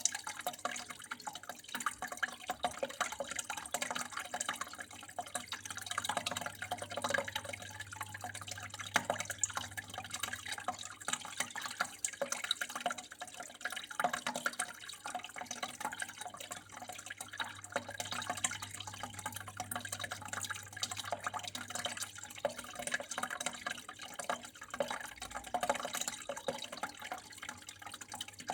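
Water flowing and trickling steadily, a dense patter of small drips and splashes, over a faint steady low hum.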